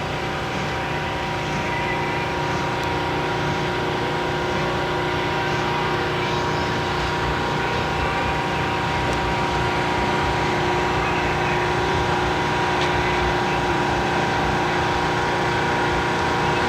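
A vehicle engine running steadily with a constant hum, its pitch unchanging throughout.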